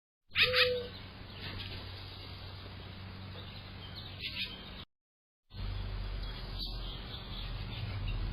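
Short bird chirps, loudest just after the start and again about four seconds in, over a steady low hum. The sound cuts out completely for about half a second near the middle.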